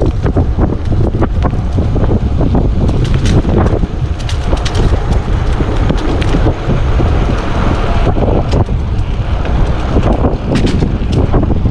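Heavy wind buffeting the action-camera microphone on an e-bike ridden at about 28 mph, with scattered clicks and rattles throughout.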